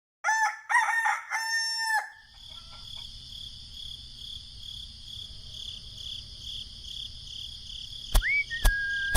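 A rooster crowing once, a three-part cock-a-doodle-doo about two seconds long. It gives way to a steady, pulsing insect chorus, with a few sharp clicks and a brief rising whistle near the end.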